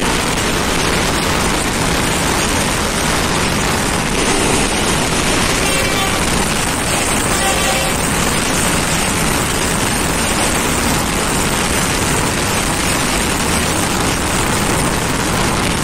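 Loud, steady rush of wind and wheel-on-rail noise from the open doorway of a passenger train running at speed. An oncoming passenger train is crossing on the adjacent track at the same time.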